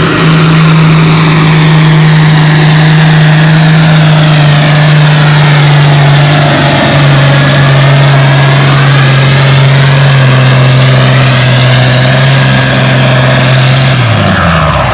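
International Harvester 1256 tractor's turbocharged six-cylinder diesel pulling a sled at full throttle, its pitch sagging in steps as the load builds; near the end the engine drops sharply to idle as the pull ends.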